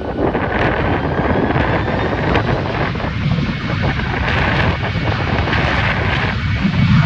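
Jet airliner engines running as the plane passes: a broad rush with a faint turbine whine that slowly shifts in pitch, and a low rumble that builds near the end. Wind buffets the microphone.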